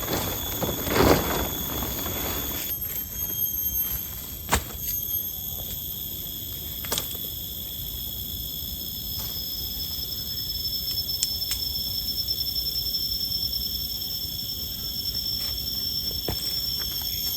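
Insect chorus in the rainforest: several steady high-pitched tones held throughout. A louder rustle comes about a second in, and a few sharp clicks or knocks follow.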